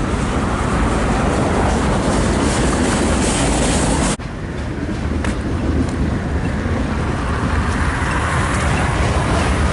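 Train passing close by on the tracks, a loud steady rumble and rattle, broken by a sudden brief dip about four seconds in.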